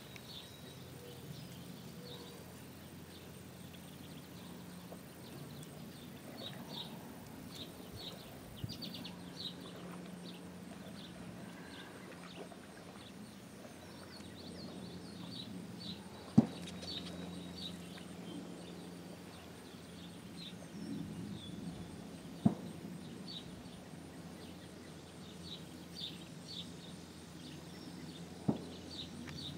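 Outdoor pond-side ambience: small birds chirp repeatedly in short high notes over a steady low hum. Three sharp knocks stand out, about halfway through, a few seconds later, and near the end.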